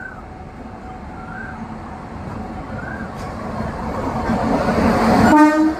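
WAP-7 electric locomotive hauling a passenger train past, its rumble growing steadily louder as it approaches. A short horn blast comes near the end and is the loudest sound.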